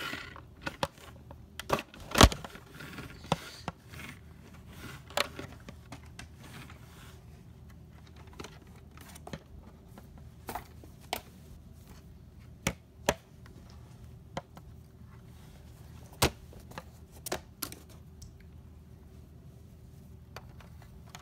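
Irregular light clicks and taps, with a few sharper knocks, over a faint steady hum.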